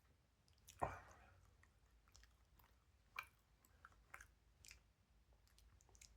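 Faint chewing of a mouthful of sandwich close to the microphone: scattered small wet clicks of the mouth, with a sharper click about a second in and another about three seconds in.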